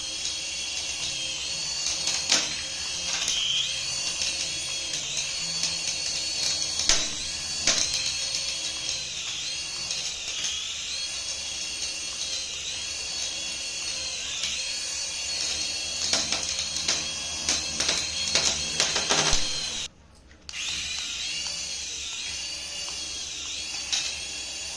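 High-pitched whine of a toy's small electric motor, its pitch wavering up and down every second or two, with a few sharp clicks. The sound drops out briefly near the end.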